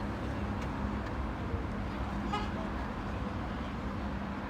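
Steady low rumble of idling car engines, with a short toot of a car horn about halfway through.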